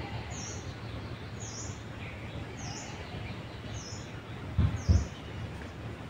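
A bird calling with short, high chirps, five of them about a second apart, over a steady low rumble. Two low thumps about two-thirds of the way through are the loudest sounds.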